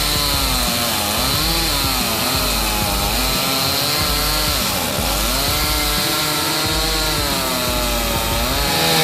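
Chainsaw engine running under load, its pitch dipping and picking up again several times as the chain bites into wood.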